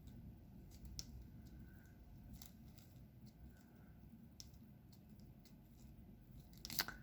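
Faint, irregular small clicks and taps of diamond painting: resin drills being picked up with a drill pen and pressed onto the sticky canvas, a few clicks every second or two, with a slightly louder cluster near the end.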